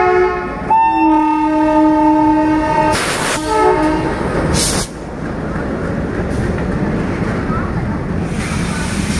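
Indian Railways WDG-4 diesel locomotive sounding its multi-tone horn, one long blast and then a short one, as it runs past. It is followed by the steady rumble and clatter of the freight wagons rolling by.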